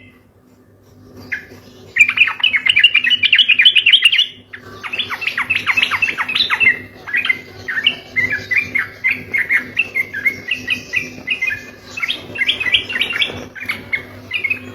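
Sooty-headed bulbul singing in fast, rolling runs of short chirping notes, the rapid unbroken 'ropel' style of song used as a lure. It starts about two seconds in, pauses briefly just after four seconds, then carries on.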